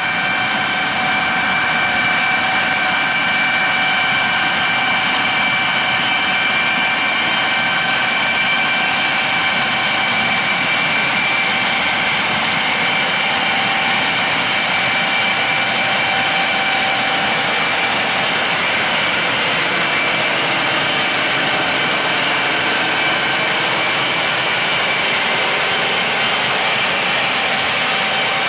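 Combine harvester running steadily while harvesting corn: a continuous machine drone with a steady high whine over it.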